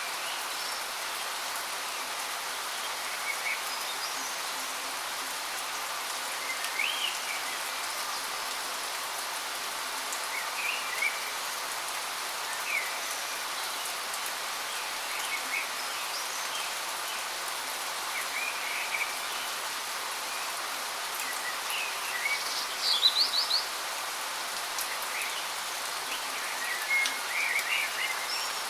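Steady rushing of a waterfall, with songbirds chirping in short scattered calls over it; a quick run of several notes stands out about two-thirds of the way through.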